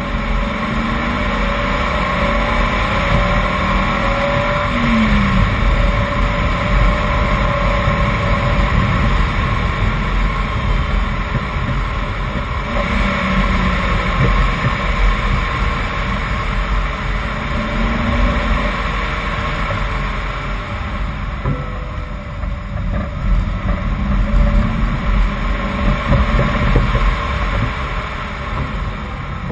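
BMW 328i's straight-six engine pulling uphill, its revs rising and falling again and again through the bends, with steady wind and tyre rumble.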